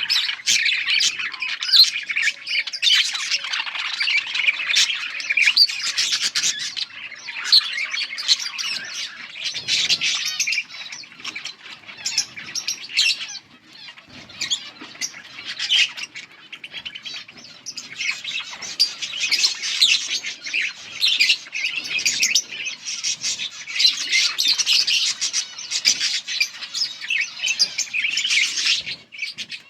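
Yellow budgerigars chirping and chattering in a dense, continuous stream of short, rapid calls. The chatter thins out briefly about halfway through.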